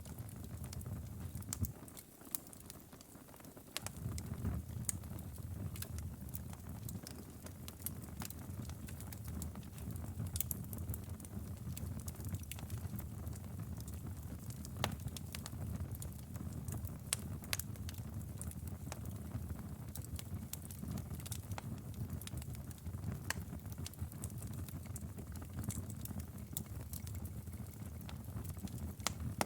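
Outdoor fire crackling, with frequent sharp irregular pops and snaps over a low steady rumble of the flames. The rumble dips briefly about two seconds in.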